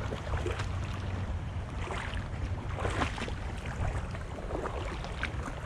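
Shallow creek water running, with a few irregular splashes from wading through it and a steady low rumble of wind on the microphone.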